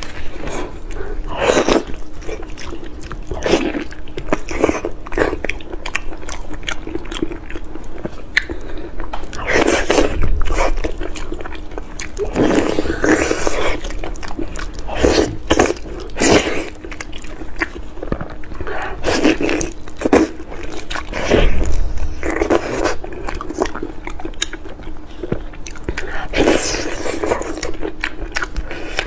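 A person biting into and chewing braised fatty pork close to the microphone, in irregular bursts of bites and chews, over a steady faint hum.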